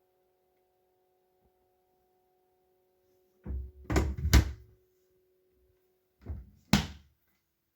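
A faint steady hum with several dull knocks and thumps: three close together a little past halfway, then two more near the end, where the hum stops.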